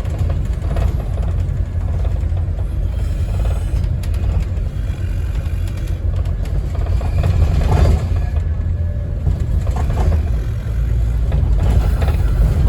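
Cabin sound of a 2008 Scania N230UD OMNICity double-decker bus under way: a steady low rumble from its five-cylinder diesel engine along with road noise, swelling briefly about eight seconds in.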